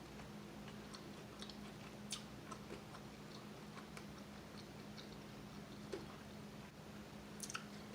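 Faint chewing and biting of crispy chicken wings, with scattered small clicks over a low steady hum.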